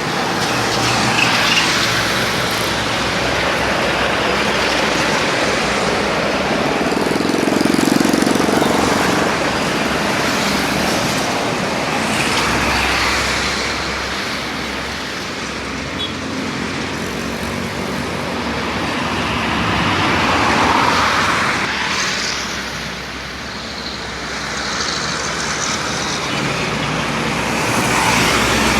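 Road traffic: a steady noise of engines and tyres that swells and fades about five times as vehicles pass one after another.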